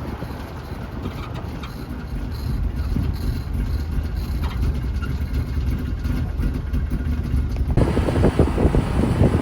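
Suzuki Jimny SJ30 on the move: road and drivetrain rumble, with the owner's "gii-gii" creaking from the passenger-side front steering knuckle, a noise whose beat quickens with road speed. The rumble gets louder about eight seconds in.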